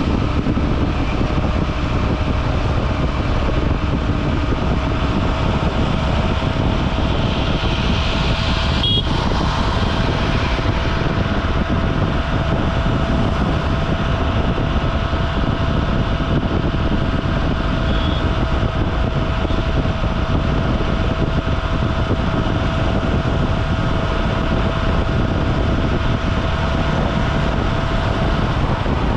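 Honda SP125's single-cylinder engine running steadily while riding in traffic, mixed with heavy wind and road noise on a helmet-mounted camera; a faint steady whine runs through most of it.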